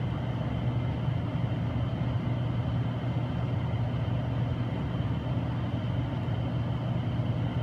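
Steady low mechanical hum of a machine running, unchanging throughout.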